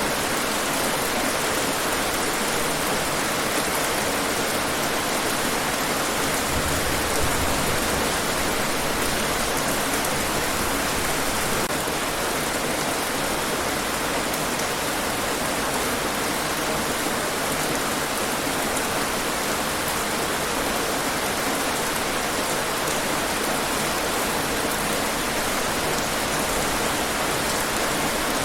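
Steady, heavy rainfall, a dense even hiss of drops with no let-up.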